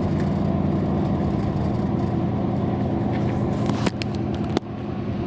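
Steady engine hum of a vehicle running, with a few sharp clicks and a brief dip in level a little before the end.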